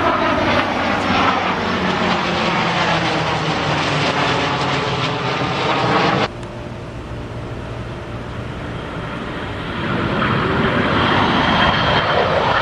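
Aircraft flying low overhead, the engine's pitch falling as it passes. About six seconds in the sound cuts off suddenly to a quieter engine noise, which grows louder again near the end as another pass approaches.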